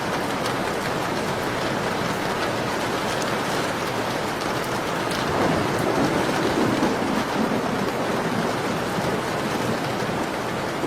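Steady rain falling, with faint crackling ticks from a wood fire. A brief low rumble swells up about halfway through, like distant thunder.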